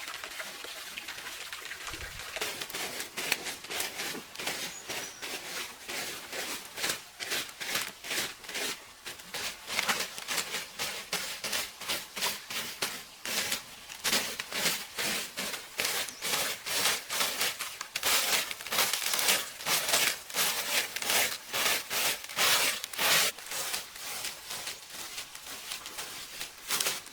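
Repeated hand-worked scraping or rubbing strokes, about two to three a second, loudest in the middle and later part.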